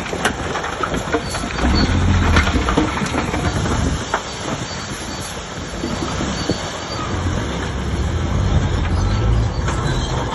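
Shantui DH17C3 bulldozer's diesel engine running, its low note swelling and easing, with its steel tracks clanking and squealing and scattered sharp metal clanks.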